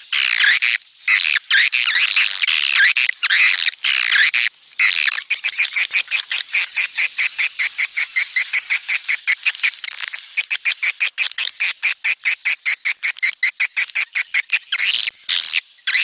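Edible-nest swiftlets twittering in dense, overlapping chirps. After about five seconds this turns into a fast, even trill of short chirps, and the warbling chirps come back near the end. These are the breeding-season calls played as a lure in swiftlet houses.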